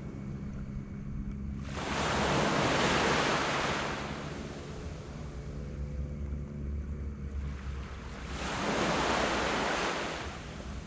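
Sea waves breaking on a beach: two waves surge in and wash up about six seconds apart, over a quieter steady wash. A faint, steady low hum runs underneath.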